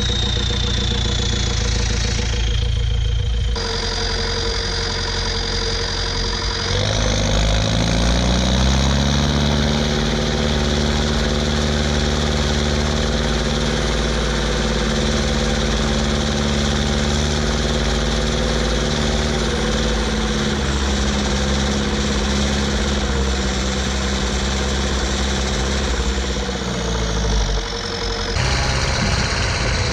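Ursus 1014 tractor's four-cylinder turbo diesel on a straight pipe, working under load with a high turbo whistle over the engine note. The revs climb about seven seconds in, hold steady, then drop near the end.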